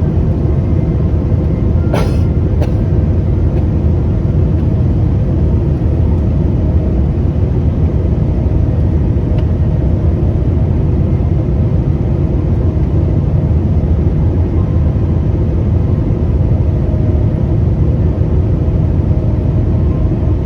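Airliner cabin noise in flight: a steady, loud low rumble of engines and airflow, with one brief click about two seconds in.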